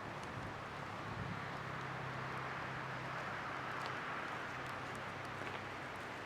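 Outdoor wood bonfire burning in gusty wind: a steady rushing of flame and wind with a few faint crackles. A low steady hum runs under it for most of the time.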